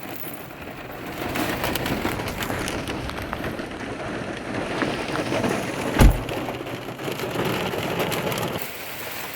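Heavy rain pattering down in a thunderstorm, with a single low thump about six seconds in.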